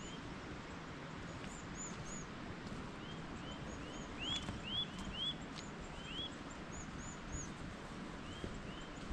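A small bird calling outdoors, repeating short rising-and-falling chirps in quick runs of about three, over a steady faint outdoor hiss.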